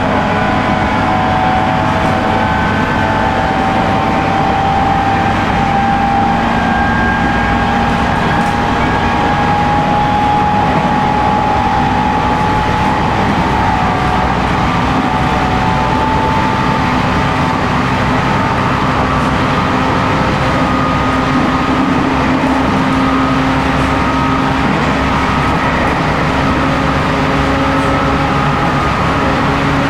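719 series 5000-subseries EMU running at speed, its MT61 traction motors and gearing whining over a steady wheel-and-rail rumble. The whine rises slowly in pitch throughout as the train gains speed.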